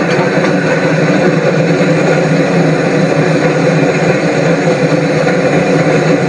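A train's steady, continuous running noise: an even mechanical rumble with a constant hum through it, with no change in pace.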